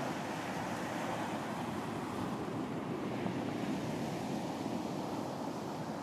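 Steady wash of surf breaking on a beach, a continuous low rushing with no distinct single wave crash.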